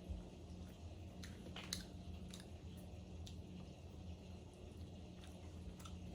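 People chewing and biting into fried chicken, with a few faint short crunches and clicks, the clearest close together about one and a half seconds in, over a steady low hum.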